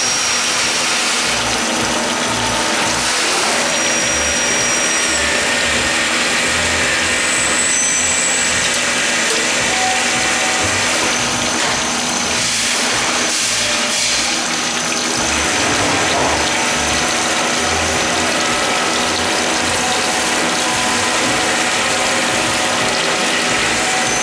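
A Star RNC16 CNC sliding head lathe running with a steady mechanical clatter. Short whining tones come and go over it.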